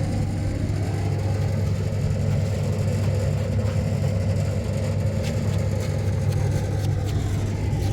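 An engine running steadily with a low, even hum, with a few light ticks near the end.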